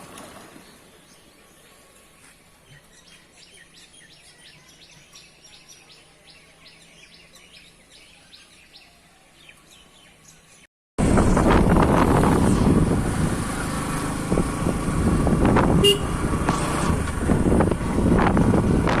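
Faint bird chirping in a quiet spell with a motorbike engine switched off. About eleven seconds in, it cuts abruptly to loud wind noise on the microphone, with vehicle noise from riding along the road.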